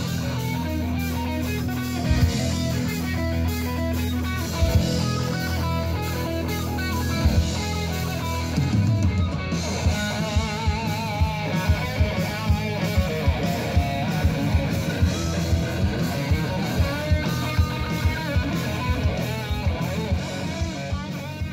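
Live rock band playing an instrumental passage with electric guitar and bass; a steady drum beat comes in about nine seconds in.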